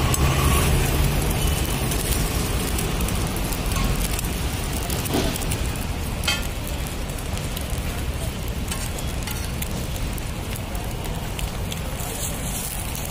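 Egg paratha frying in oil on a large flat iron tawa, sizzling steadily, with a sharp click about six seconds in.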